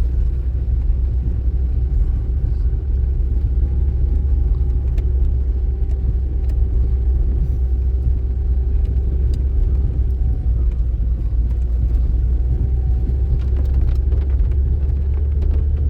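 A car on the move, with a steady low road and engine rumble and a faint engine tone holding a near-constant pitch.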